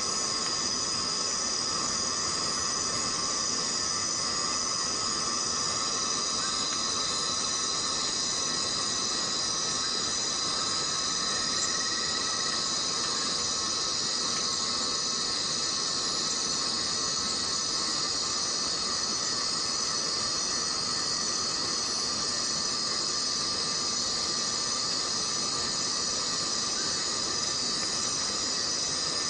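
Chorus of forest cicadas buzzing in a steady, unbroken drone, mostly high-pitched, with a lower ringing tone beneath.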